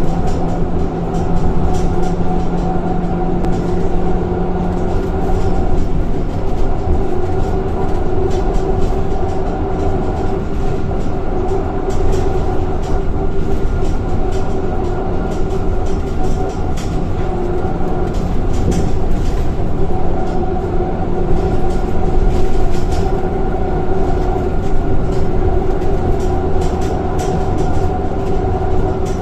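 Scania K230 single-decker bus under way, its engine and ZF automatic gearbox running with a low rumble and several steady whining tones. The tones shift as the bus changes speed or gear, a few seconds in and again about twenty seconds in.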